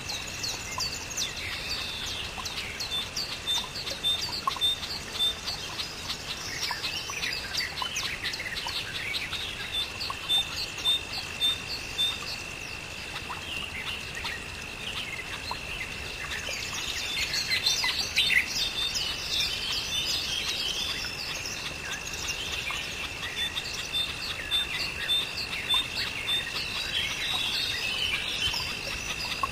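Many birds chirping and calling over a steady high-pitched tone, with a run of quick, evenly spaced pips coming and going.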